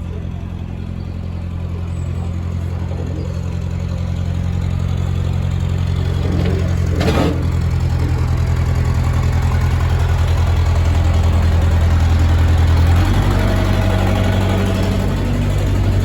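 Canal boat engine running steadily and growing louder, its note shifting lower about thirteen seconds in. A brief sharp noise cuts across it about seven seconds in.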